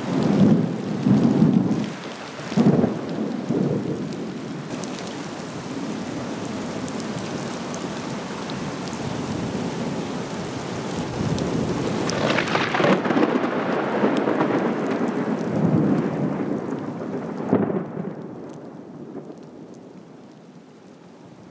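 Heavy rain pouring onto choppy river water in a thunderstorm, with wind and several louder surges, the biggest from about 12 to 18 seconds in. The noise dies down over the last few seconds as the downpour eases.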